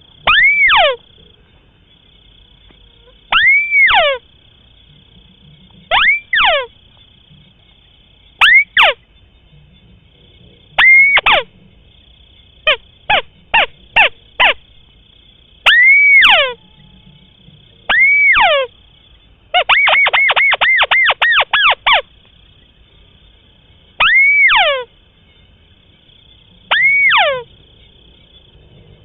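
White-browed crake calling: loud single calls, each rising briefly and then sliding steeply down in pitch, every two to three seconds. A quick run of short notes comes about halfway through, and a fast stuttering series of about a dozen notes follows a few seconds later.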